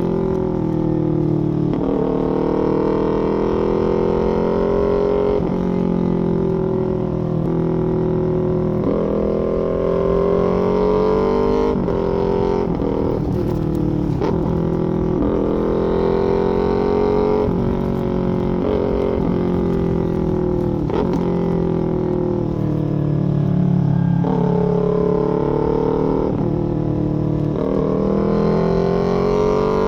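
Small parallel-twin sport motorcycle with a full aftermarket exhaust, being ridden hard. The engine note climbs through the revs, drops sharply at each gear change and climbs again, over and over.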